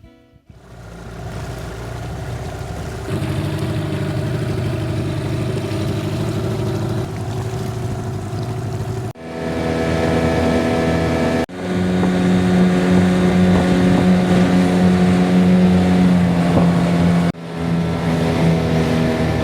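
A boat engine running steadily, heard as several cut-together stretches, with abrupt breaks about 9, 11 and 17 seconds in.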